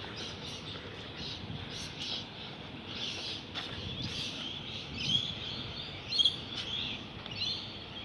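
Birds chirping and calling in quick, short notes, the calls louder in the second half, over a steady low background hum.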